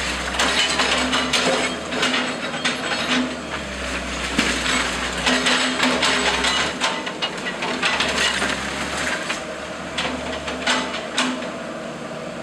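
Timber cracking, splintering and crashing repeatedly as a house's wooden structure is crushed during demolition, over the steady low hum of a heavy machine's engine.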